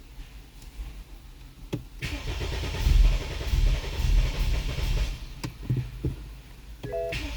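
A BMW N20 four-cylinder turbo engine cranking on the starter without catching, for about three seconds starting about two seconds in: a crank-no-start fault, with spark and injectors reported fine. A short electronic chime sounds near the end.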